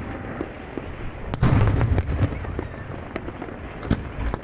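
Aerial fireworks display: shells bursting with sharp bangs and echoing booms, the loudest about a second and a half in, with scattered crackle between the bursts.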